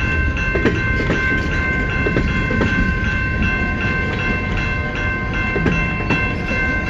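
A long CN freight train rolling past: a low rumble of the cars with irregular clicks from the wheels over the rails, and a steady high-pitched squeal ringing over it.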